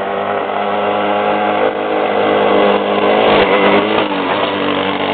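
Mini bike's small engine running at high revs as it rides closer, growing louder over the first few seconds, with a brief dip in pitch a little past the middle before it holds steady.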